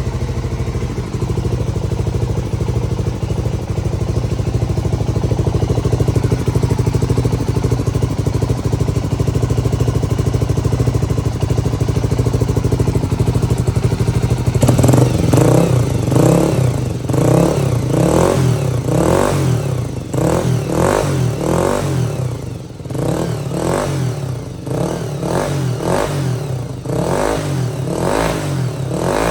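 Honda GB250 Clubman's single-cylinder four-stroke engine idling steadily, then, about halfway through, revved in repeated short throttle blips, about one a second, each rising and falling back.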